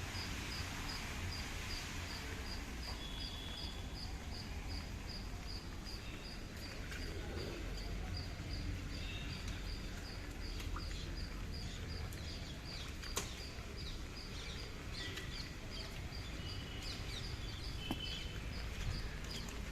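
Outdoor ambience in the rain: a steady hiss over a low rumble, with a short high chirp repeating evenly about four or five times a second and a few faint scattered clicks.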